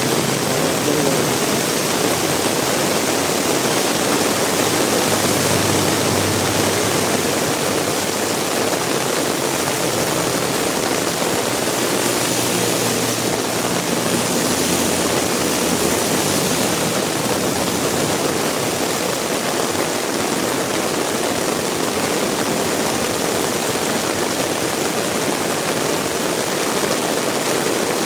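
Heavy rain falling steadily, a dense even hiss. A vehicle engine hums low underneath for roughly the first half.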